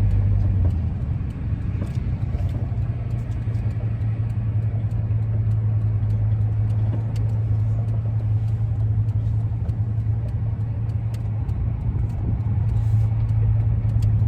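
Ford E-350 van driving at steady speed, heard inside the cab: continuous road and engine rumble with a strong steady low drone. The van is on a test drive for a howl from the roof rack.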